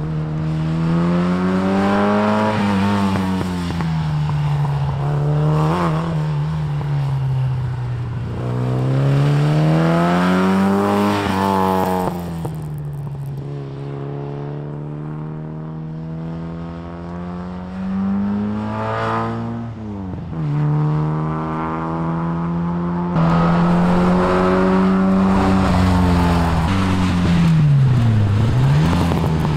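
MGB roadster's four-cylinder engine driven hard, its revs climbing and falling again and again as it accelerates, lifts off and changes gear, with a quick dip and recovery near the end.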